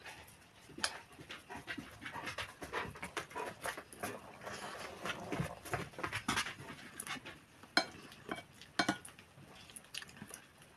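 Close-miked chewing and wet mouth and lip-smacking sounds of someone eating, irregular and continuous, with a few sharper clicks about eight and nine seconds in.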